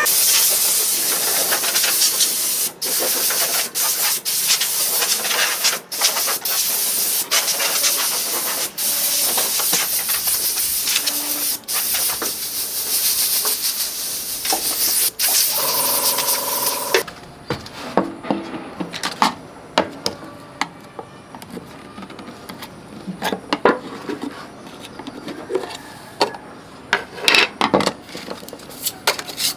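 A loud, steady hiss of spray for about seventeen seconds, broken by a few brief gaps, then quieter scraping with scattered light clicks and knocks.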